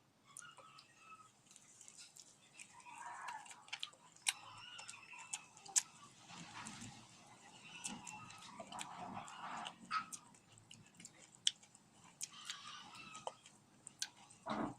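Faint eating sounds: scattered sharp clicks of utensils and mouth, with soft chewing between them.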